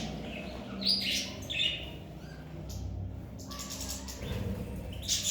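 Small cage finches chirping in short, scattered calls, with brief bursts of wing fluttering.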